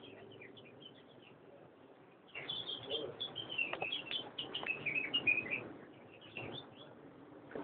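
Many caged birds chirping at once: short high chirps, scattered at first, then a dense chorus from about two seconds in until nearly six seconds, thinning out near the end.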